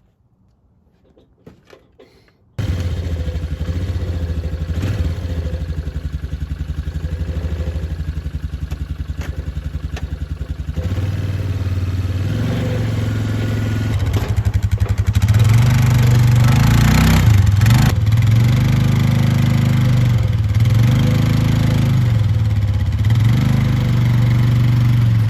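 ATV engine starting abruptly about two and a half seconds in and idling steadily. In the last ten seconds it is revved up and down several times.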